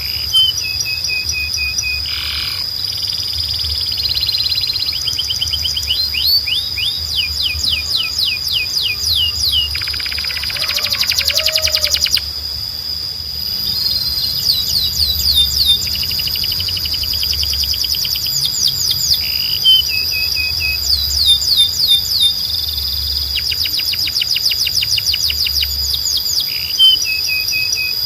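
Canary singing: long rapid trills and rolls of quickly repeated notes, one phrase after another with barely a pause, over a constant high tone.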